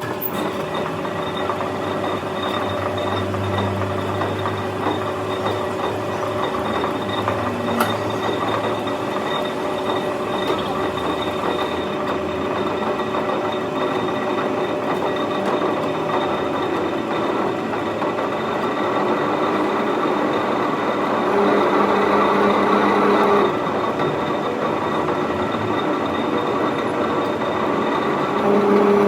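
Workshop machine running steadily, a constant whine over a dense rushing noise. It gets a little louder about twenty seconds in and again near the end.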